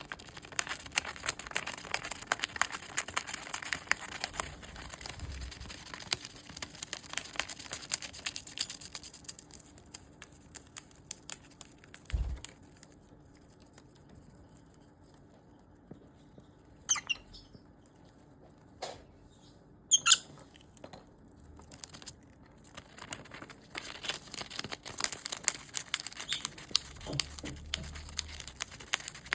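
Lovebird shredding paper with its beak: rapid crisp nibbling and tearing clicks. The shredding pauses midway, where a few short high chirps come, and starts again near the end.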